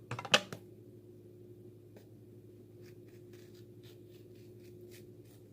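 Scraping out the middle of a halved zucchini, heard as faint, scattered soft scrapes and ticks, after a couple of sharp knocks at the start. A steady low hum runs underneath.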